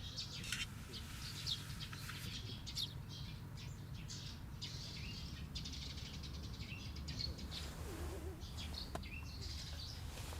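Small birds chirping repeatedly and irregularly over a steady low background rumble, with a few sharp clicks.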